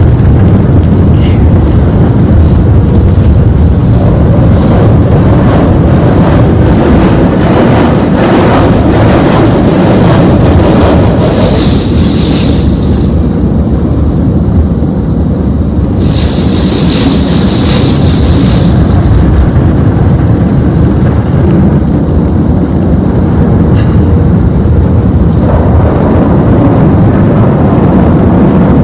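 Automatic tunnel car wash heard from inside the car: loud, steady rumbling of the wash machinery and water on the body, with two bursts of high hiss from the spray about halfway through.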